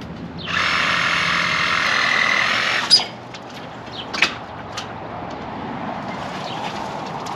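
A power tool runs loudly and steadily for about two and a half seconds, then cuts off abruptly with a sharp click. Scattered sharp knocks and cracks follow.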